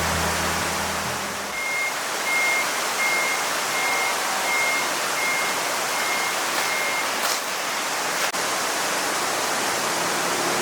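Eight short electronic beeps at one steady pitch, evenly spaced about two thirds of a second apart, over a steady rushing noise, after background music fades out in the first second or so. A couple of sharp clicks follow near the middle.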